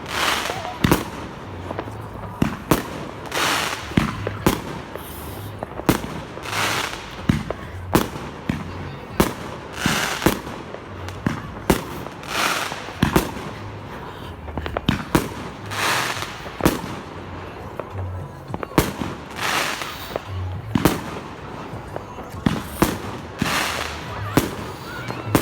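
Fireworks and firecrackers going off: many sharp bangs at irregular intervals, with longer hissing, crackling bursts every two to three seconds.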